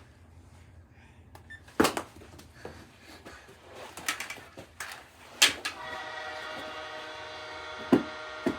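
Sharp knocks from a knee hockey game: mini sticks and a ball striking and hitting hard surfaces. About six seconds in, a steady horn-like tone with many overtones starts and holds, with more knocks on top.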